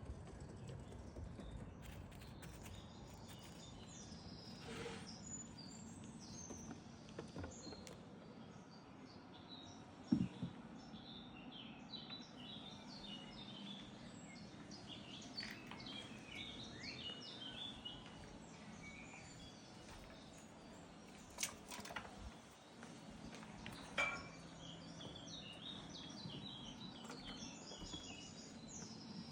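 Small birds chirping and twittering over faint, steady outdoor background noise, with a few sharp knocks or taps: the loudest about ten seconds in, and others a little after twenty seconds.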